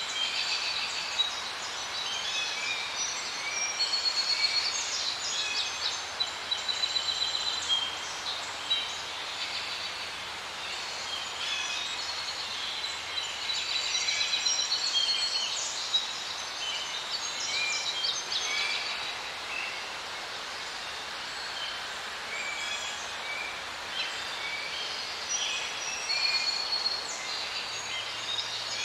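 Many birds chirping and whistling in overlapping short calls over a steady background hiss.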